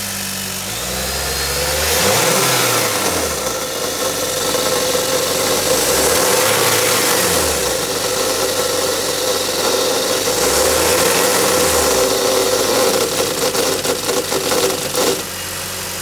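Nissan Serena (HFC26) engine blipped up and back down three times, over a steady whine from a faulty alternator that cuts off suddenly near the end. Some clicking comes just before the cutoff.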